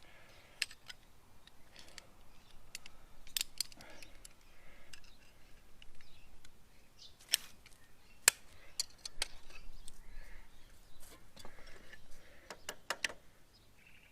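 Scattered sharp metallic clicks and clinks of hand tools, an Allen key and vice grips, worked against an Allen-head bolt inside a motorcycle fork leg, irregular and spread over the whole stretch.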